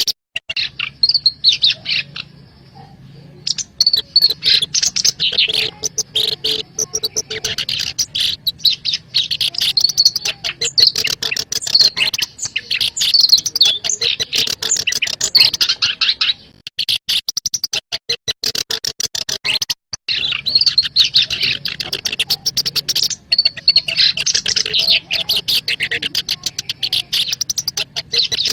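Black-browed reed warbler singing: long runs of fast, scratchy chattering notes, with a short break about two seconds in and a longer pause around the middle.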